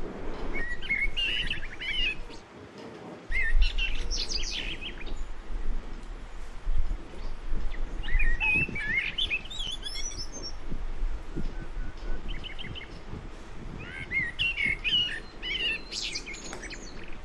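Songbirds singing: short bursts of quick, twittering chirps a few seconds apart, over a low steady background noise.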